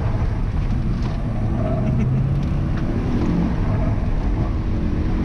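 Car engine driven hard, its pitch rising and falling as it revs through the course, heard from inside the cabin with road and wind noise.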